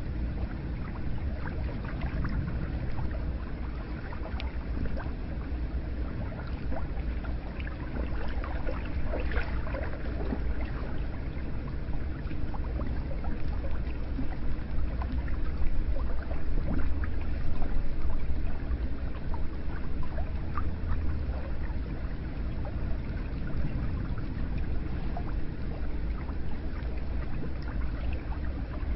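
Hot spring water running steadily, a continuous rush with many small splashes and gurgles.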